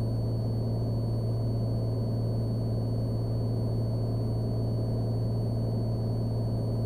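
Cessna Skylane's single piston engine and propeller droning steadily in flight, an even low hum that does not change.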